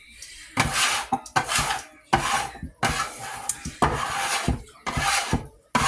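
A metal bench scraper scraping repeatedly across a work surface, about seven rasping strokes in quick succession.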